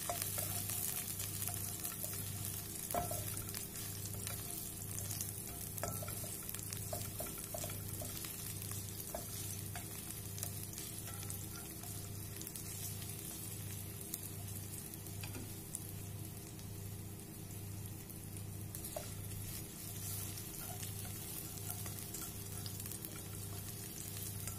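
Garlic and sliced red onions sizzling steadily in a little oil in a nonstick pan, with occasional scrapes and taps as a slotted spatula stirs them. The aromatics are being sautéed until fragrant. A low hum pulses about once a second underneath.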